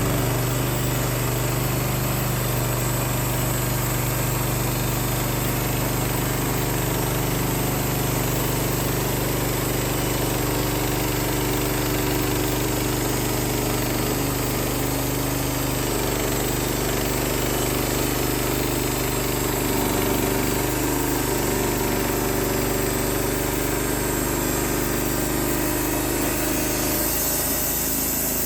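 Wood-Mizer LX55 portable sawmill's 14 HP engine running steadily, its note changing near the end.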